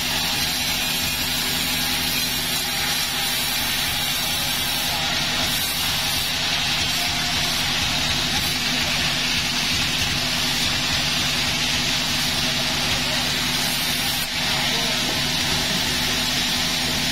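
Sawmill machinery running steadily: a constant motor hum under an even hiss, with no breaks or changes.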